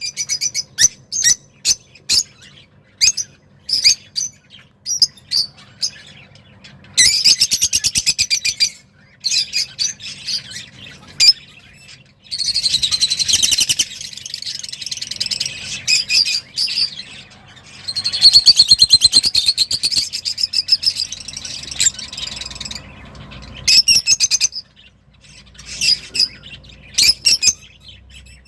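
Roz songbird singing excitedly: short sharp high chirps broken up by several long, fast, rattling trilled phrases.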